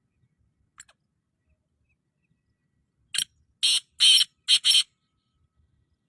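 Black francolin calling: a quick run of five harsh, rasping notes lasting about two seconds, starting about three seconds in. A faint click comes just before the first second.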